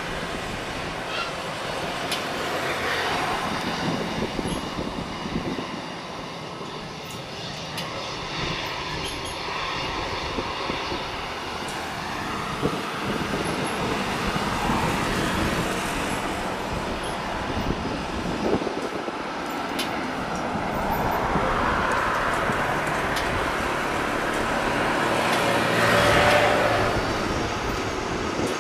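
Jet engine noise of a landing Airbus A330-300 airliner with Rolls-Royce Trent 700 engines: a steady rumble with a thin whine, swelling louder about three quarters of the way through.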